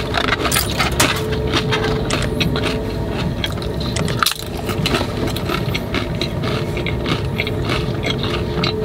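Close-miked chewing of crisp food, a dense run of sharp crunches and cracks.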